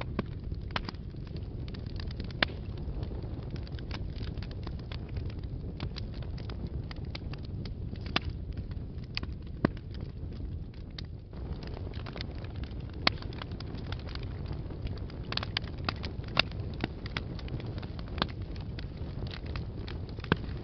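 Wood fire burning in a fireplace: a steady low rumble of flame with frequent crackles and sharp pops, a few standing out loud.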